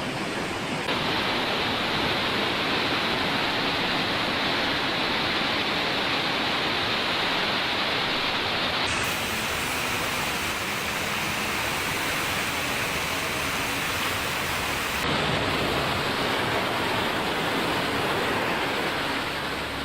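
Steady rushing noise of heavy water, torrential rain or flood flow, with no voices. Its character changes abruptly about a second in, at about nine seconds and at about fifteen seconds, as one stretch of water sound gives way to another.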